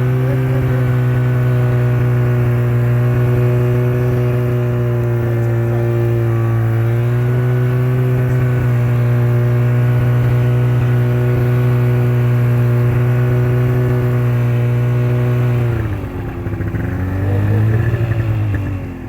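Motorcycle engine running at a steady speed, then easing off about sixteen seconds in, picking up briefly and easing off again near the end.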